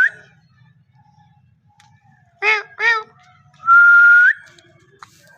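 Ringneck parakeet whistling: a steady whistle that flicks upward at its end, preceded by two short voice-like calls. A similar whistle tails off right at the start.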